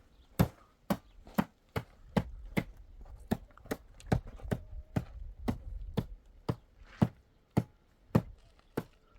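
Repeated sharp knocks, a little over two a second and uneven in strength, as of something being struck over and over.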